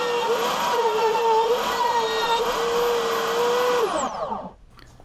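Router-table router motor running at full speed with a high steady whine that sags briefly several times as the roundover bit cuts the wood. Near the end it is switched off and spins down, the pitch falling away over under a second.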